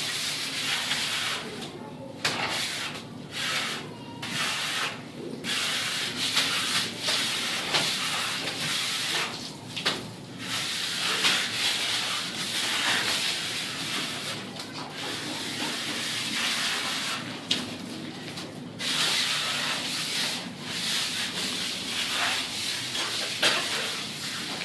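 Rough scraping or rubbing noise in long spells, broken by several short pauses.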